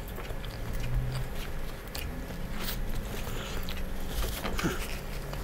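A man chewing a mouthful of ghost pepper slider, with small wet mouth clicks and a crinkle of paper wrapper.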